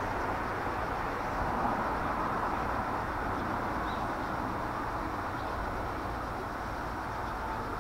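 Meitetsu electric train running, a steady running noise that eases slightly toward the end.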